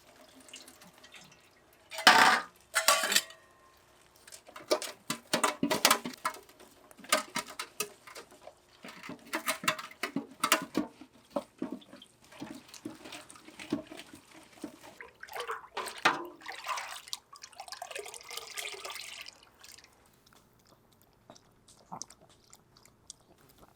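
Kitchen clatter: dishes and utensils knocking and clinking, with splashes of water and a few seconds of running or pouring water near the end.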